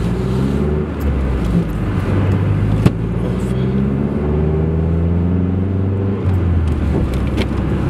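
Turbocharged 2.3-litre four-cylinder engine of a Mazdaspeed3 pulling hard under full throttle, its note rising steadily in pitch. There is one sharp click about three seconds in.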